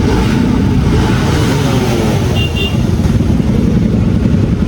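Motorcycle engine running steadily while riding in traffic, with two short high beeps about halfway through.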